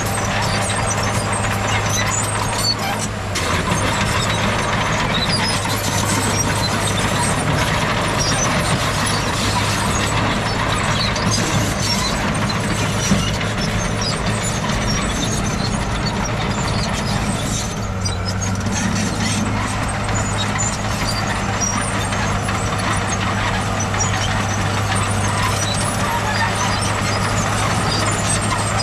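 Heavy diesel earthmoving machinery running, a steady low engine drone over loud mechanical noise. The drone eases about 3 seconds in and picks up again around 18 seconds.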